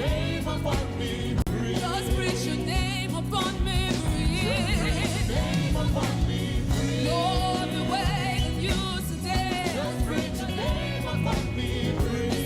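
Live gospel worship music: a sung melody with vibrato over sustained keyboard chords and a steady beat.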